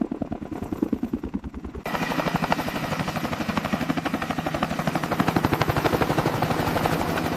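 Helicopter rotor blades chopping in a fast, even rhythm. About two seconds in the sound suddenly grows louder and fuller, with a rushing hiss added over the chop.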